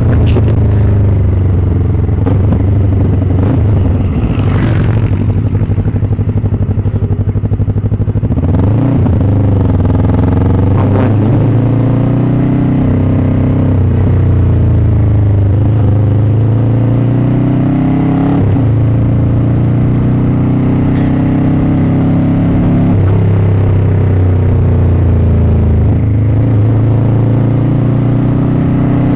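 Motorcycle engine running under way, a loud, low, steady note that steps up and down in pitch several times as the throttle and gears change.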